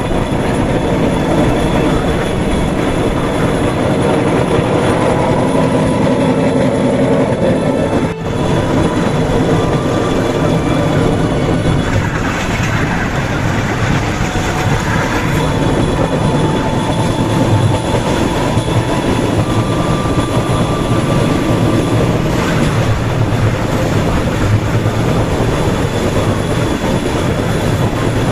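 Bamboo train (norry) running along the rails: its small engine and the wheels on the track make a loud, steady noise, with a momentary drop about eight seconds in.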